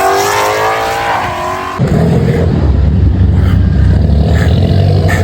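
Car engine revving, its pitch climbing, then about two seconds in an abrupt switch to a loud, steady low exhaust rumble.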